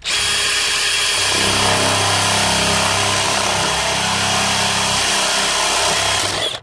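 Handheld power tool running in one steady six-second burst, deepening about a second in as it bears into the material, then cutting off sharply near the end.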